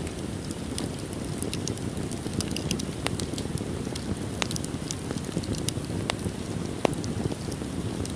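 Wood fire in a fireplace crackling, with a continuous low rush from the flames and frequent small clicks. A few sharper pops stand out, the strongest near the end.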